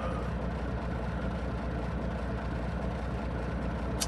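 Truck engine idling with a steady low hum, and a single short click near the end.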